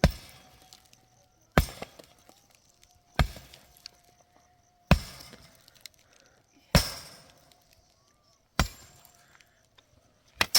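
Repeated single sharp strikes on brick, about one every second and a half to two seconds, each with a short ringing decay: a mason's hammer chopping bricks to size.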